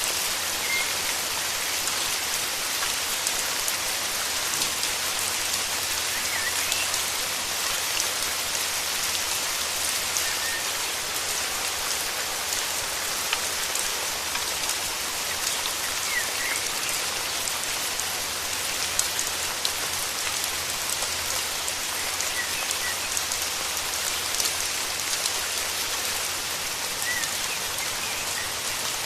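Steady heavy rain falling, with individual drops ticking through the hiss. A few faint, short bird chirps come through now and then.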